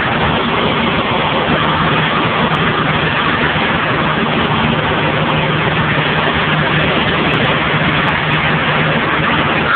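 Steady drone of a Cessna 172's piston engine and propeller in flight: a low, even hum under a dense rushing noise, with no change in pitch or level.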